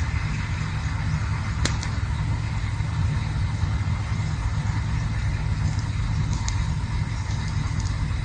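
Campfire burning: a steady low rumble with a few sparse crackles and pops, the sharpest about a second and a half in.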